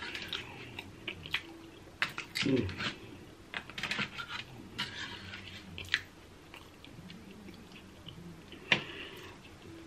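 Close-miked mukbang eating sounds: wet chewing and smacking with many irregular sharp clicks and crackles, as crab and seafood are eaten.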